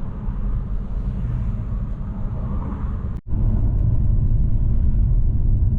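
Low, steady rumble of a small car driving, engine and road noise heard from inside the cabin. About three seconds in it drops out for a split second, and after that the rumble is a little louder.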